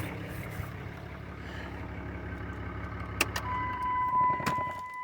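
Cummins 6.7-litre inline-six turbo diesel idling steadily. About three and a half seconds in, a steady electronic beep tone starts and holds, with a couple of sharp clicks.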